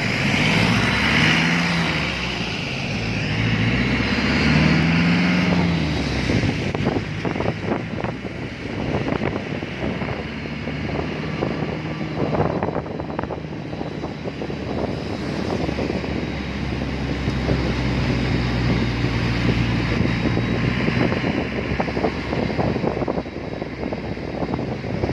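A road vehicle driving: its engine runs with pitch that shifts up and down, under steady road and wind noise with scattered crackles.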